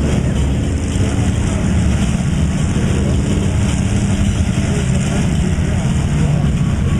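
Loud, steady running of truck engines, with background voices mixed in.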